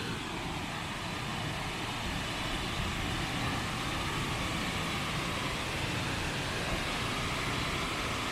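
Steady rushing roar of a large waterfall, an even noise with no breaks.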